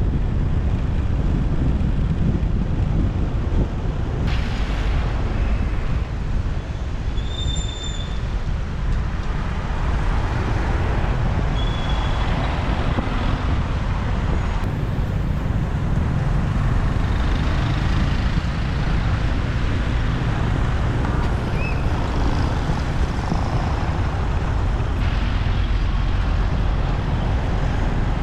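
Motorbike riding through city traffic: a steady low rumble of engine, road and wind on the microphone, with other traffic around. A couple of brief high beeps stand out over it.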